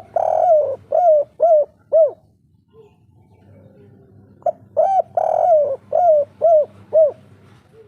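Spotted dove (derkuku/tekukur) cooing its 'kuk 3' song twice: each phrase is a few short coos and one longer coo followed by three short 'kuk' notes. The first phrase is already under way at the start and ends about two seconds in; the second follows after a pause of about two and a half seconds.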